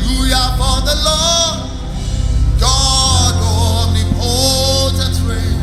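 Live gospel worship music: a singer holds two sung phrases over a band with a sustained bass.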